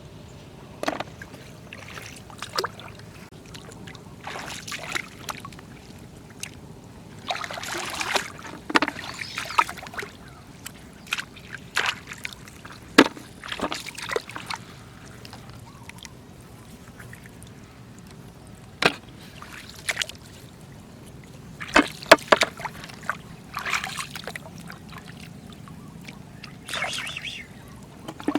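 Shallow floodwater splashing and sloshing in irregular bursts as it is disturbed while picking snails, with sharp knocks now and then, the loudest about halfway through and again about two-thirds of the way in.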